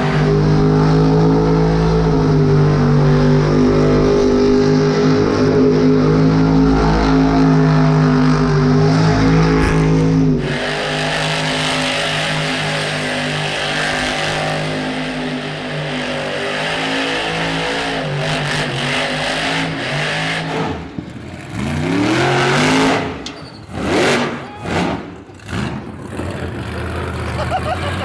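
Son-uva Digger monster truck's supercharged V8 engine running hard at steady high revs, then, from about twenty seconds in, a series of quick throttle blips, each rev climbing and dropping back.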